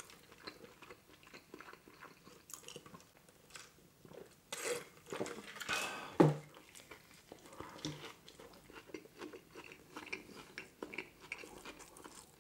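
Close-miked chewing of a mouthful of McDonald's Grand Mac burger: soft, irregular wet smacks and clicks of the mouth, busier about four to six seconds in, with one brief louder mouth noise around six seconds.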